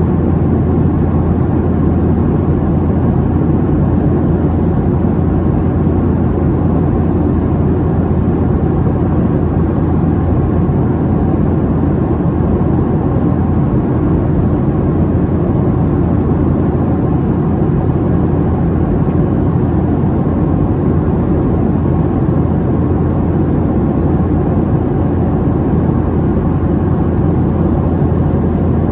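Steady cabin noise of a Boeing 737-700 in cruise flight: the hum of its CFM56-7B engines and the rush of air along the fuselage, unchanging and mostly low-pitched.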